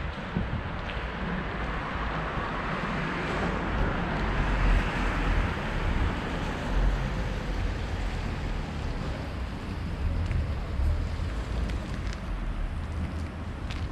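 Wet-street traffic noise with wind rumbling on the microphone; a vehicle's tyres hiss on the wet road as it passes, swelling a few seconds in and then fading.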